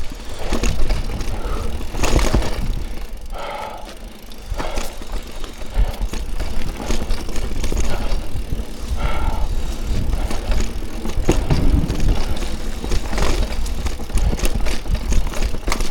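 Mountain bike being ridden over a rooty trail: frequent knocks and clatter from the bike over a steady low rumble.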